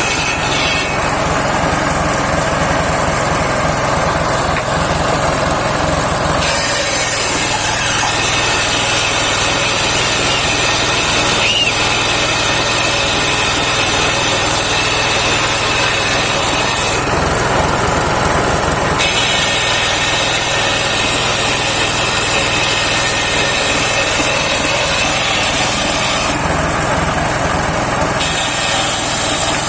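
Engine-driven homemade circular sawmill running continuously while sawing saman wood. Its sound shifts in a few spells of several seconds each.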